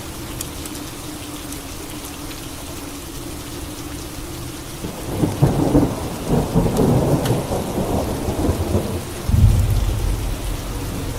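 Steady rain falling, with a thunderclap rolling in about halfway through: a crackling peal that builds, then a deep low rumble near the end.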